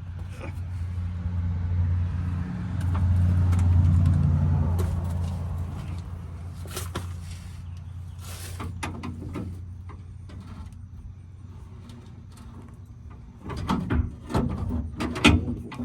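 Spare tire winch under a 2000 Dodge Dakota being cranked up by hand with a loose-fitting tool: scattered clicks and knocks, growing into a close run of knocks near the end. A low rumble swells and fades over the first six seconds or so.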